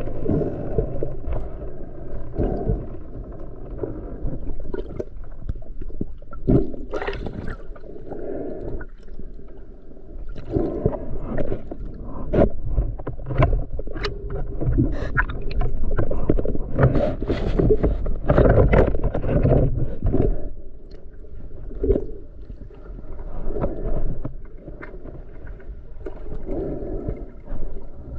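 Water sloshing, gurgling and splashing around the camera as snorkelling divers swim at the surface, in uneven surges with scattered knocks.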